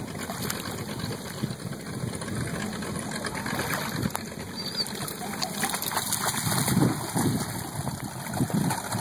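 Irregular water splashing and churning, with louder surges of sloshing about two-thirds of the way through.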